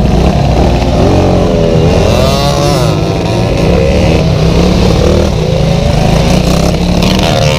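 Stunt motorcycle engine running hard as the rider holds a wheelie, its revs rising and falling with the throttle.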